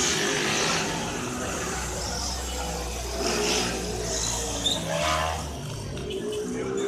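A car engine running with a steady low drone, and a brief shout about five seconds in.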